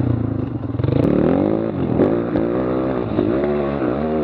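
Dirt bike engine revving up and down several times as it is ridden, with a few short clatters.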